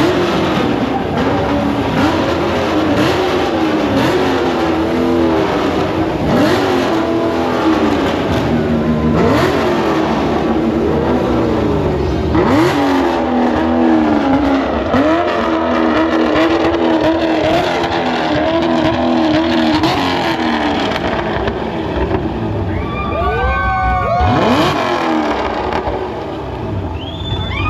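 A car engine revved hard over and over, its pitch climbing and dropping back every couple of seconds, with a run of sharper rev sweeps near the end.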